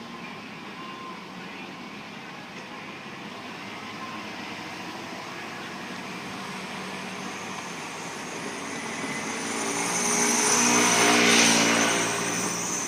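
A motor vehicle approaching and passing close by: engine hum and tyre rush build up slowly to a peak about two-thirds of the way through, then begin to fade.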